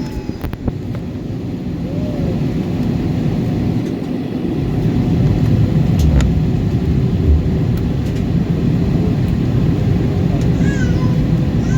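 Cabin noise of an Airbus A320 in flight: a steady rumble of engines and airflow that grows louder about four to five seconds in.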